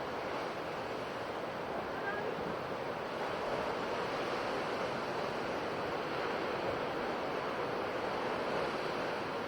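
Ocean waves washing on a shore: a steady surf wash with gentle swells in loudness.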